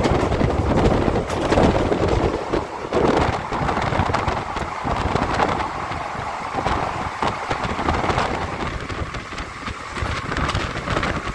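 Passenger train running on the rails, a steady rumble with many short clacks from the wheels, and wind buffeting the microphone.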